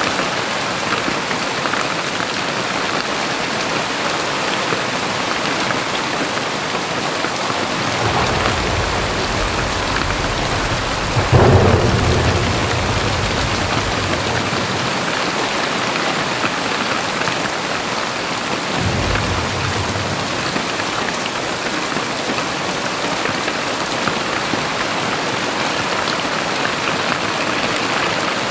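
Very heavy rain pouring steadily. About eight seconds in, a low rumble of thunder builds and breaks into a loud crack about a second later, then rolls away.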